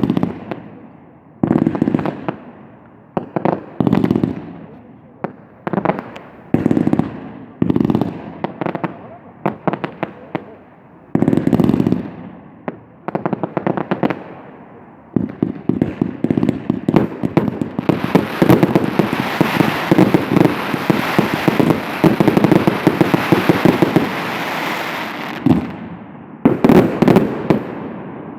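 Fireworks finale: loud bursts one after another, every second or two, each trailing off into crackle. About halfway in, a dense barrage of rapid reports and crackling runs for about ten seconds, then separate bursts return near the end.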